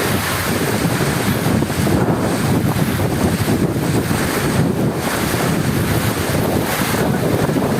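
Heavy rainstorm: a dense, steady rush of rain with a deep rumble underneath.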